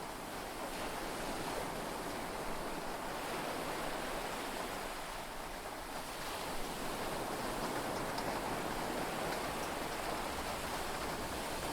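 Heavy rain and sea waves heard from inside a yacht cabin, an even, steady rushing with no single strikes standing out.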